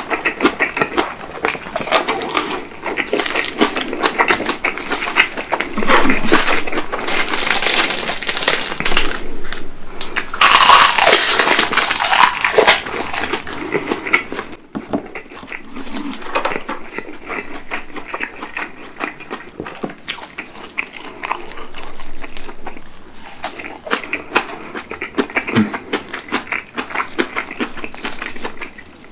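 Close-miked chewing of napa cabbage kimchi: a dense run of small wet mouth clicks and crunches, loudest in the middle and quieter after about fifteen seconds.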